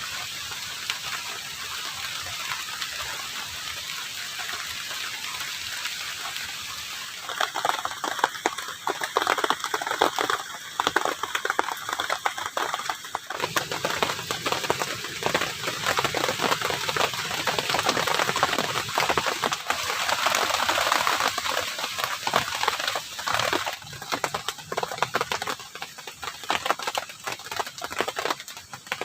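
Heavy rain falling steadily. About seven seconds in, dense, irregular tapping and crackling joins it, and the sound grows louder.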